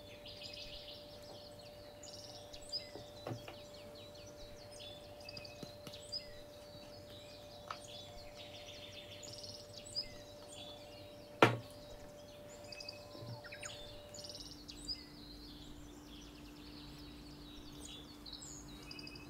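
Faint birds chirping over a low steady hum. The hum drops in pitch about three-quarters through. A few soft clicks sound, with one sharper knock about two-thirds through.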